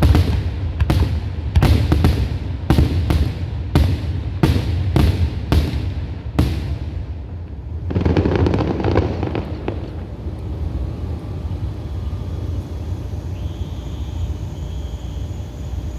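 Fireworks bursting overhead: a rapid series of about ten sharp bangs over the first six seconds or so, then the bursts stop. A brief swell of noise about eight seconds in gives way to a steady low rumble.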